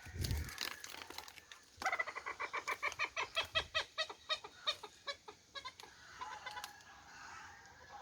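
A chicken clucking in a fast run of repeated calls, about five or six a second, starting about two seconds in and lasting some four seconds. A brief low bump comes at the very start.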